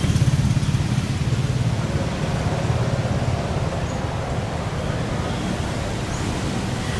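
A vehicle running steadily: a low engine rumble with an even hiss over it, easing off slightly about a second in.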